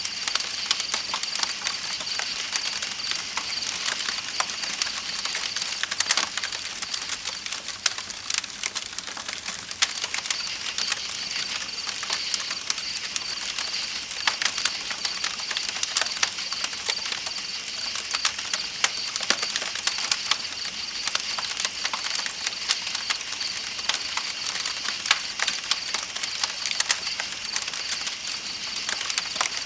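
Layered nature ambience: a campfire crackling with frequent irregular sharp pops, over a steady high chirping of night insects and the rushing flow of a river.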